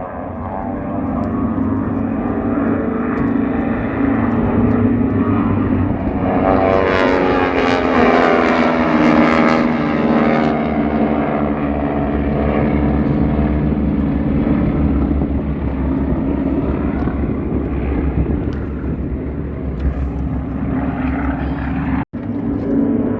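Propeller airplane's engines droning steadily as it flies past, swelling and brightening around seven to ten seconds in. The sound cuts out for an instant near the end.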